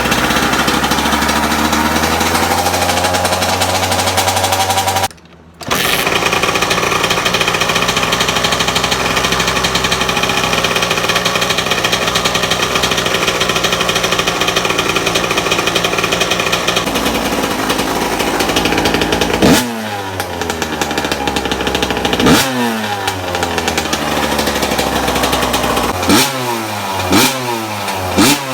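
Suzuki RM85 two-stroke motocross engine running just after a cold start without the choke. The sound drops out for about half a second some five seconds in and then returns steadily. In the last third the throttle is blipped again and again, the revs jumping and falling back after each, the blips coming quicker near the end.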